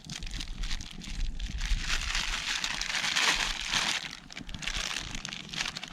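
Wrapping crinkling and rustling as it is handled, building up and loudest around the middle before easing off.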